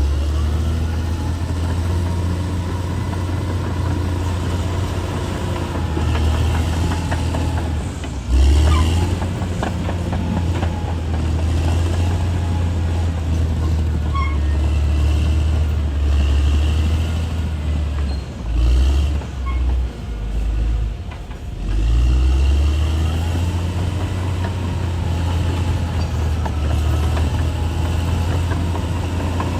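Bulldozer's diesel engine running with a steady low drone. The engine swells sharply about eight seconds in, then dips and surges a few times about two-thirds of the way through.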